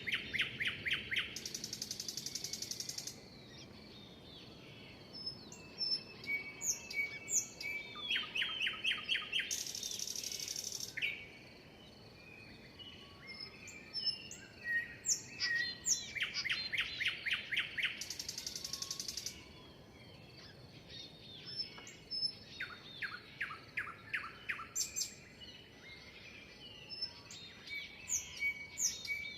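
Songbirds chirping and singing, with short whistled notes and a rapid trill that comes back every seven to nine seconds, often followed by a brief high buzzy note.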